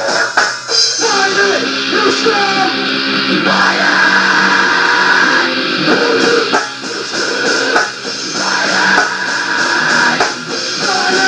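Rock music from a band's demo tape: electric guitar and drum kit playing, with a thin sound lacking deep bass.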